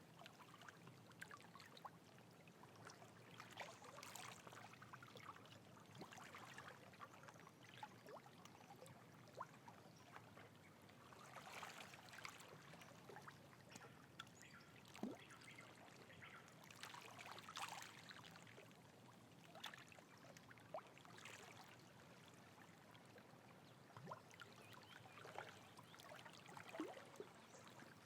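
Faint trickling, flowing water, with irregular small splashes and gurgles.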